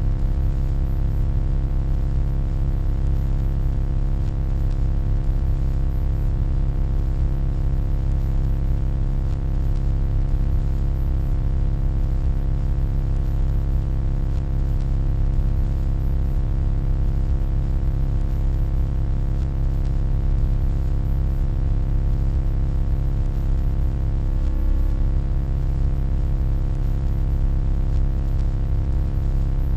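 Steady electronic hum: a deep, constant low drone layered with many steady tones, and a faint thin high whine above it, unchanging throughout.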